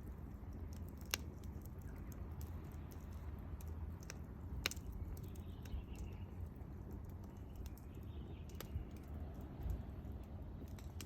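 Wood fire crackling, with sparse sharp pops and a few louder snaps over a low steady rumble.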